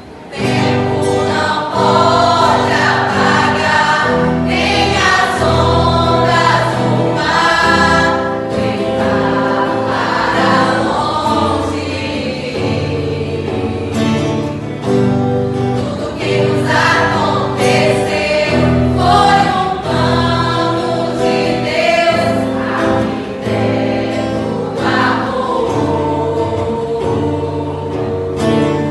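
A mixed choir of men and women singing a Portuguese gospel song in harmony, with instrumental accompaniment holding steady chords underneath; the full choir comes in about half a second in.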